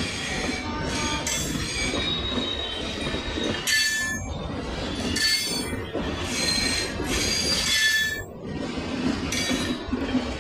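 Passenger train coaches rolling past close by: the wheels rumble on the rails, with recurring high-pitched squeals and rattles every second or two.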